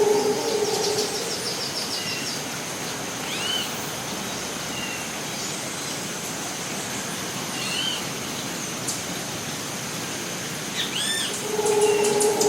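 Costa Rican rainforest ambience: bird chirps and calls come now and then over a steady background hiss and a continuous high-pitched whine. A rapid trill sounds about half a second in. A low hooting call with overtones sounds in the first second and starts again near the end.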